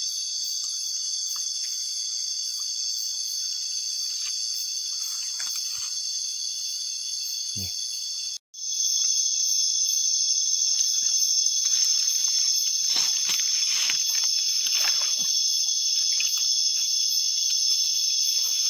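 Steady, high-pitched chorus of night insects, cutting out for a moment about eight seconds in and coming back louder.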